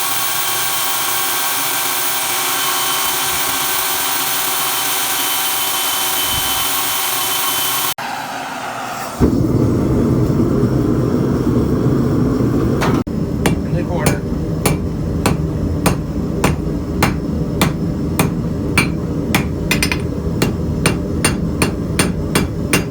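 For the first eight seconds a steady machine runs, like a power tool, with many high tones. After a short low rumble, a blacksmith's hammer strikes hot steel on an anvil from about halfway through, at about two blows a second, forging the point of a knife blade from a reclaimed high-carbon steel rasp.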